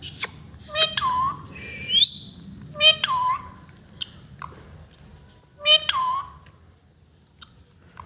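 A parrot making repeated whistling calls with short chirps between. A similar call comes back three times, about one, three and six seconds in.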